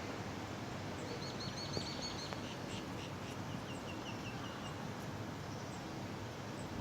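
A bird calling in two quick runs of short, high chirps, the second run stepping slightly down in pitch, over steady outdoor background noise.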